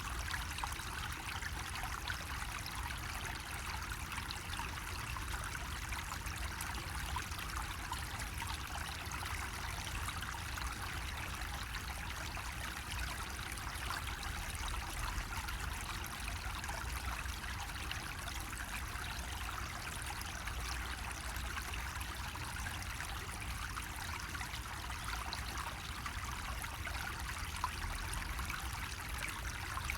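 Water running steadily from a bamboo spout, a continuous trickling and splashing with no breaks.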